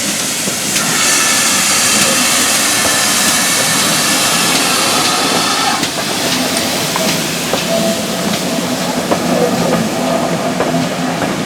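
Steam locomotive letting off steam: a loud hiss for about five seconds that cuts off suddenly, followed by scattered metallic clanks and a steady tone from the engine.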